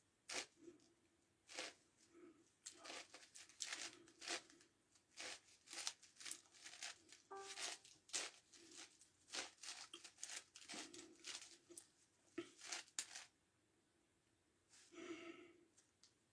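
Plastic layers of a 9x9x9 Rubik's Cube being turned by hand: quick, irregular clicks and scrapes, some in fast runs, with a pause of about two seconds near the end.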